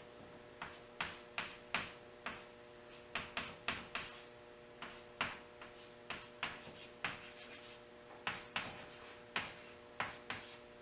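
Pen or marker writing and sketching on paper: a quick series of short scratchy strokes, about two or three a second, over a faint steady hum.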